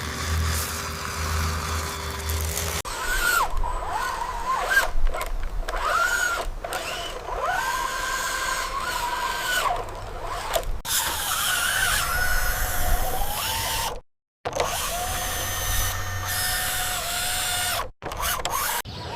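Small electric motors of RC construction vehicles whining, the pitch rising and falling as they speed up and slow down. The sound changes abruptly several times and cuts out briefly twice.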